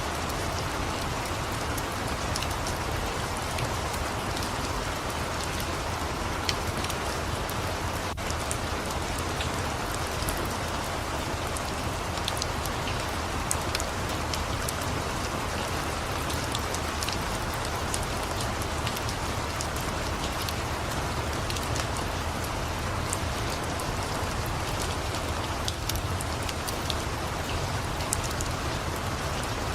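Steady rain falling, an even unbroken wash of sound with scattered sharp clicks mixed in.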